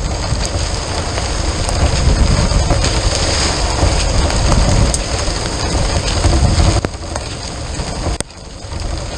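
Heavy rain pelting down in a storm, with scattered sharp drop hits over a deep rumble. The level drops suddenly for a moment near the end.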